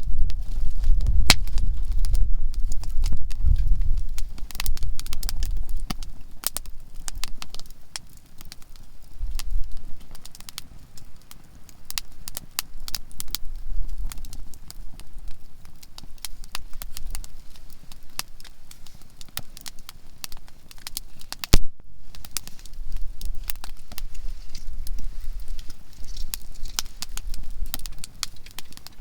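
Conifer firewood burning in a campfire, crackling steadily with frequent sharp pops, one especially loud pop a little after twenty seconds in. A low rumble underlies the first few seconds.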